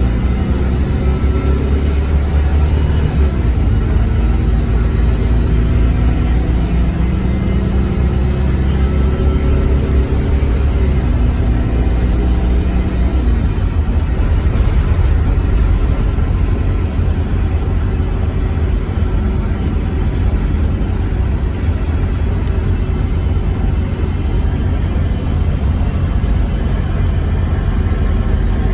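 Scania K230UB bus's diesel engine running under way with a steady low rumble, its pitch rising and falling a few times as the bus pulls away, changes gear and eases off.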